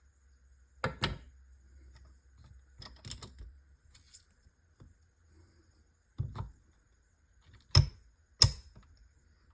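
Hard metal clicks and knocks of manual transmission parts being handled and set back in place: a few separate strikes, the loudest two close together near the end.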